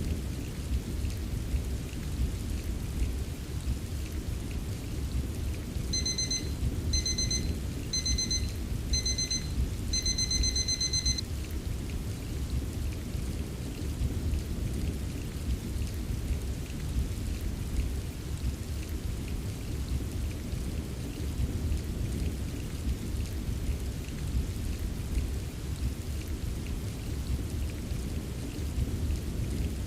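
Steady rain with a low rumble throughout. About six seconds in, an electronic timer alarm beeps four short times and then once longer, signalling the end of the 25-minute Pomodoro focus period.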